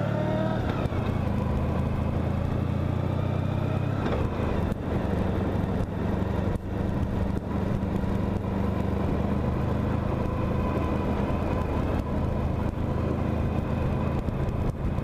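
Honda Pan-European motorcycle's V4 engine running as the bike rides along, rising in pitch in the first second, then holding a steady note, with a change in engine note about four seconds in. Wind and road noise run underneath.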